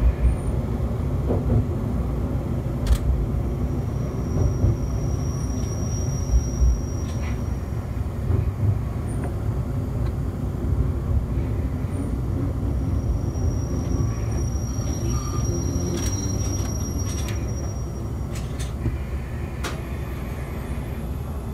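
Single-car AN-8800 diesel railcar running and slowing into a station, heard from inside the cab: a steady low rumble with a few knocks from the wheels in the first several seconds. A thin high squeal comes twice as it slows, and it comes to a stop near the end.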